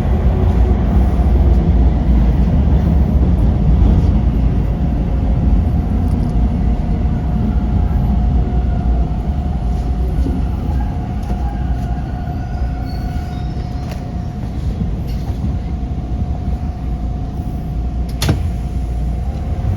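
TTC Line 2 subway train running with a heavy low rumble, heard from inside the car, gradually getting quieter as it slows into a station. A steady whine comes in clearly about halfway through, and there is a single sharp click near the end.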